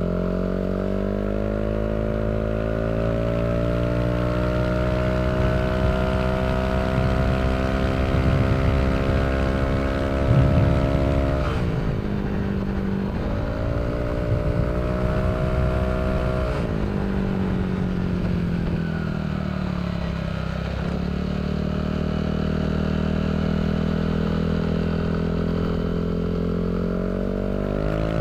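Yamaha Aerox 155 scooter's single-cylinder engine breathing through a Villan SR1 aftermarket exhaust, accelerating hard while riding: the note climbs and holds high. Then the throttle is closed twice, about 11 and 17 seconds in, and the note drops each time before climbing slowly again.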